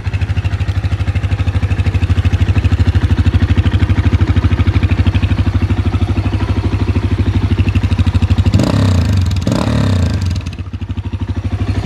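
ADLY 300 XS quad's single-cylinder four-stroke engine idling with an even, rapid exhaust pulse. It is blipped twice near the end, then drops back to idle.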